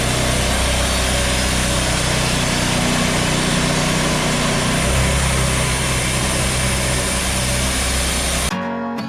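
Portable band sawmill's engine running steadily, its low hum shifting in pitch about five seconds in. Guitar music starts near the end.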